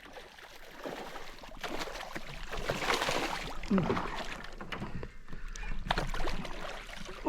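Water sloshing and handling noise around a fishing kayak, with scattered sharp knocks.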